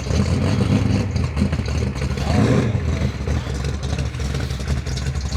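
Car engine running slowly as the car backs out, a deep steady rumble that swells briefly about two seconds in.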